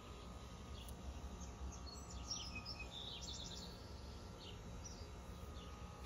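Songbirds chirping, a flurry of short calls between about one and five seconds in, over a low steady background rumble.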